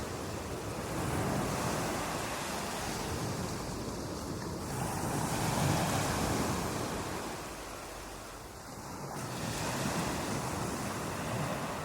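Ocean waves breaking on a beach, a continuous rush of surf that swells and eases, with louder breakers about 1.5, 6 and 10 seconds in.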